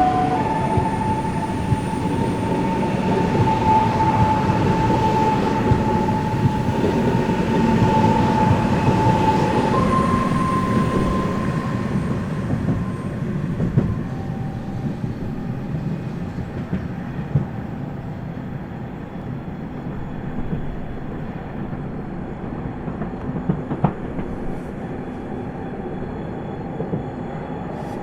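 Ivolga (EG2Tv) electric train pulling away, its traction inverters whining in a steady tone that steps up in pitch about a third of the way in, over the rumble of wheels on rail. The sound fades slowly as the train moves off.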